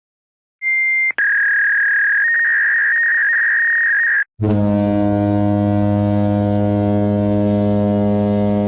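Electronic sound effects: a short high beep, then a steady high electronic tone held for about three seconds with small shifts in pitch. After a brief break comes a long, loud, low buzzer tone.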